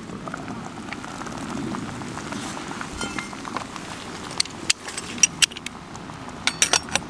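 Wood campfire crackling steadily, with a run of sharp clicks in the second half.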